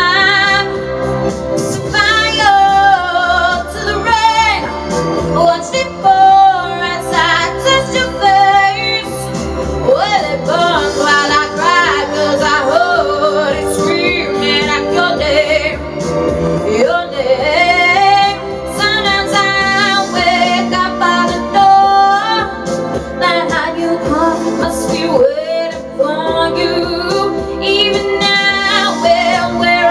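A woman singing over backing music, with long held notes that waver in wide vibrato and slide up and down between pitches.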